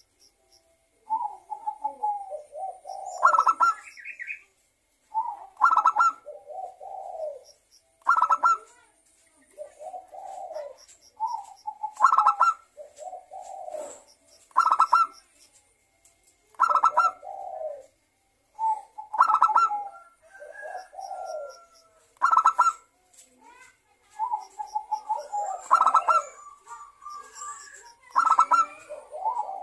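Zebra dove (perkutut) song, a phrase repeated about every two to three seconds. Each phrase has a few lower coos, then a higher, rapidly pulsed note.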